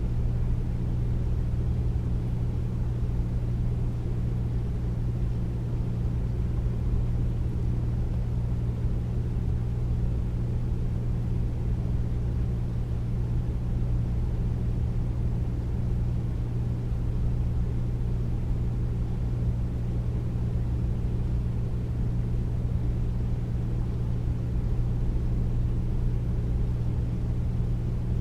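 Air conditioner running steadily: a deep, even hum with a low drone under a soft rush of air-like noise, unchanging throughout.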